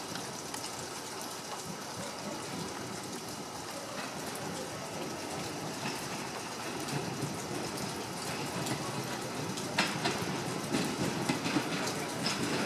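Meitetsu electric train moving on the track by the platform, a low rumble that grows slowly louder, with a few sharp clicks from the wheels and rails.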